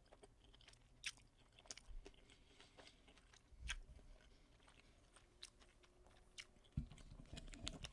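Faint close-up chewing of a mouthful of food, with scattered soft mouth clicks and a low thump near the end.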